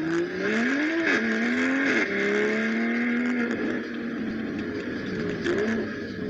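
BMW M340i's turbocharged straight-six, on an MHD Stage 2 tune, accelerating hard through the gears: the engine and exhaust note climbs, drops at quick upshifts about one and two seconds in, then holds steady before easing off around four seconds in.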